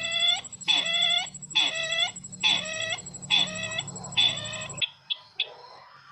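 Bird-lure recording of the 'sisintar ladang' call, the same call repeated about six times, roughly once a second, each a short pitched note that dips and rises. The playback cuts off abruptly near the end, leaving faint background with a couple of small clicks.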